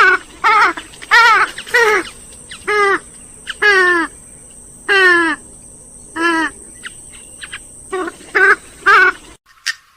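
Grey-headed swamphen calling: a rapid series of about a dozen loud calls, several falling in pitch, stopping abruptly near the end.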